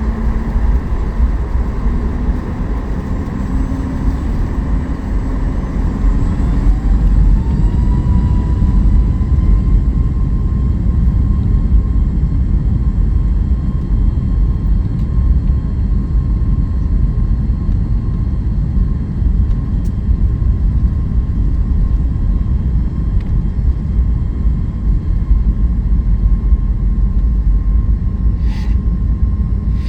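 Boeing 737 MAX 8's CFM LEAP-1B engines spooling up to takeoff thrust, heard from inside the cabin: a rising whine that settles into a steady high tone over a loud rumble as the jet rolls down the runway. A couple of brief knocks near the end.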